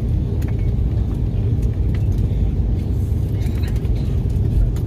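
Steady low rumble inside the cabin of an Airbus A330 taxiing after landing, with a few faint clicks and rattles over it.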